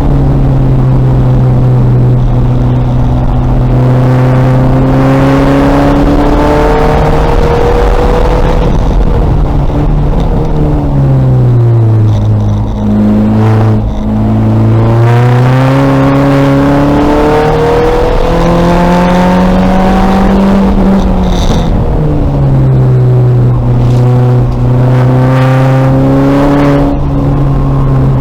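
2000 VW Golf race car's engine running hard at speed. Its pitch climbs slowly under acceleration, sweeps down and back up near the middle as the car slows and picks up again, and then holds steady.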